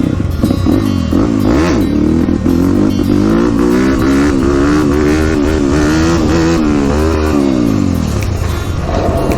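Dirt bike engine under way off-road, its pitch rising and falling again and again as the throttle is worked over rough ground, then dropping and easing off near the end.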